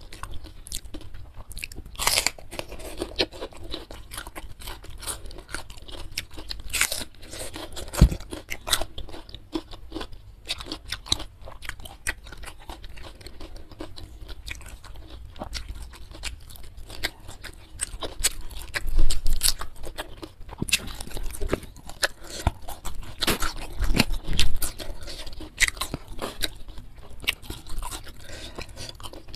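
Close-miked crunching and chewing of food, including raw bitter melon, with many sharp crunchy bites and a few louder ones along the way.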